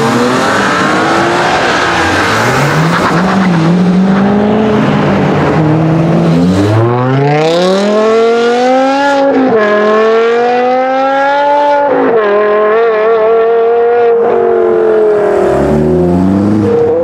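Loud car engine revving in short bursts, then the BMW M5 E60's V10 with an Eisenmann race exhaust accelerating hard. Its pitch climbs steadily and drops at upshifts about nine and twelve seconds in, then holds, falls away and rises again near the end.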